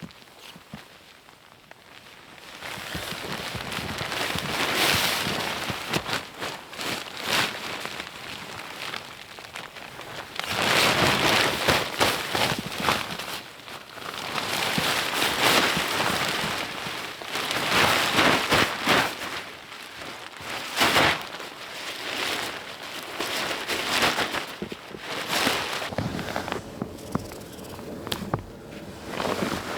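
Crinkly rustling of camping gear being handled and packed, in irregular swells every couple of seconds with many small crackles.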